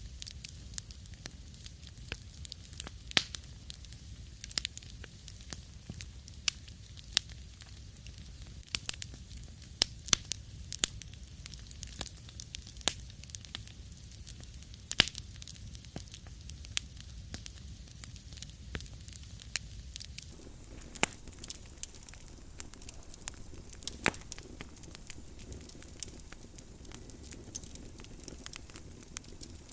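Wood fire in a fireplace crackling, with irregular sharp pops and snaps over a steady low rumble and hiss. The background hiss grows slightly fuller about two-thirds of the way through.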